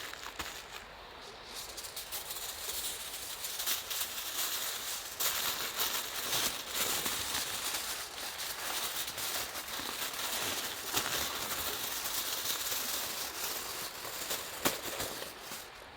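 Wood campfire crackling, with many small sharp pops and one louder pop near the end.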